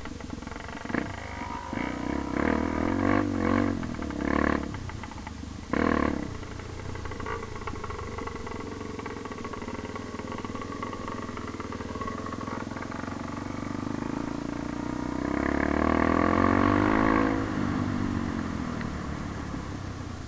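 Motorcycle engine running, its pitch rising and falling with the throttle. It is louder for a couple of seconds about three-quarters of the way through.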